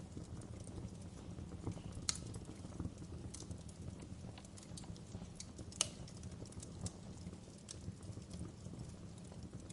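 Wood fire burning in a fireplace: a steady low rumble of the flames with irregular sharp crackles and pops, the two loudest about two seconds in and near six seconds.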